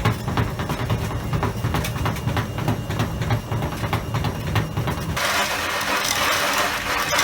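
Washing machine running with hard objects loose in the drum: a heavy rumble with rapid, dense knocking and rattling. A little after five seconds this cuts off suddenly and gives way to a steady loud hiss.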